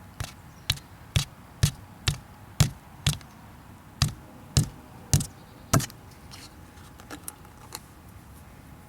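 A run of sharp knocks, about two a second, a dozen or so in all, giving way to a few fainter ones after about six seconds.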